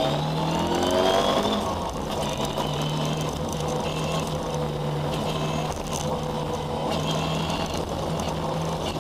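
Ford Escort rally car's engine heard from inside the cabin, revving up with rising pitch for about the first second and a half, then settling into a steady drone at constant revs.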